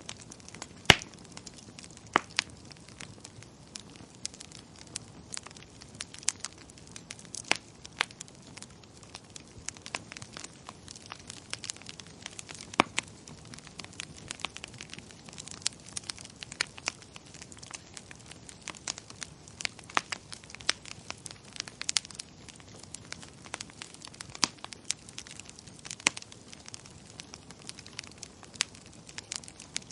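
Wood fire crackling in a fireplace: irregular sharp pops and snaps over a steady low hiss, with the loudest pop about a second in.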